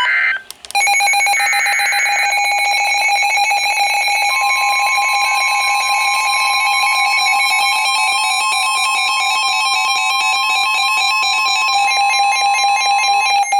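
NOAA Weather Radio warning alert for a severe thunderstorm: a short burst of warbling digital data tones, then the receiver's loud alarm buzzing steadily. The broadcast's pure, steady warning tone joins about four seconds in and stops shortly before the end.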